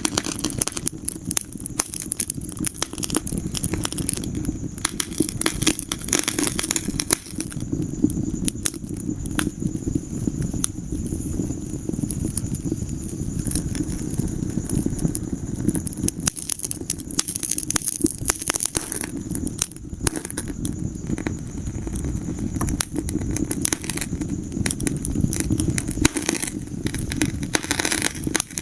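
Wood fire in a fireplace, crackling and popping with dense, irregular sharp snaps over a steady low rumble of the flames.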